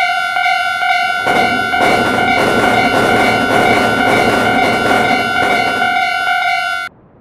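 Railroad crossing warning bell ringing at about two strikes a second, with the rushing clatter of a passing train over it from about a second in until about six seconds in. The bell cuts off suddenly near the end.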